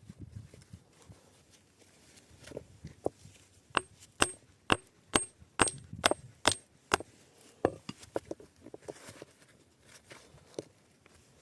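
Hammer striking into wood, about eight regular blows at roughly two a second, each with a short metallic ring. Softer knocks and handling sounds come before and after.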